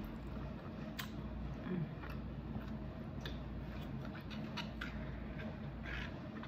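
Close-up chewing of birria tacos: scattered wet mouth clicks and smacks, the sharpest about a second in, over a steady low hum.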